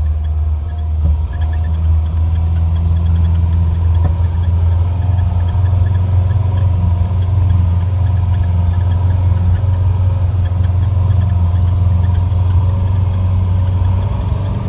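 Motocross bike engine running steadily at low revs, with a strong low hum that holds throughout.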